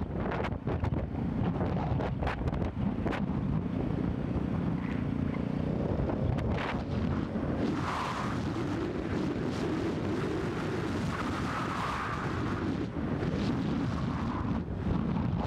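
Royal Enfield Thunderbird 500's single-cylinder engine running under way, heard through heavy wind buffeting on the camera microphone.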